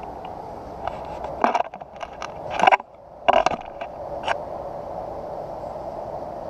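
A cluster of clattering knocks and scrapes of hard objects being handled, loudest in three hits about a second apart, over a steady background hum.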